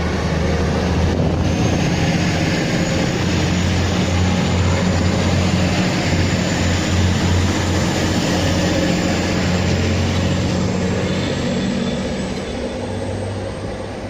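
A train running through with a steady engine drone, rushing noise and a thin high whine that rises slowly. It fades near the end.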